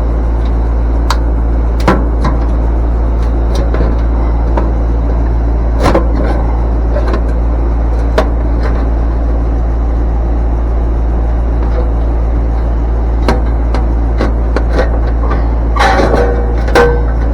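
A steady low machine hum with scattered light knocks and clicks over it, and a short run of ringing metallic clinks near the end.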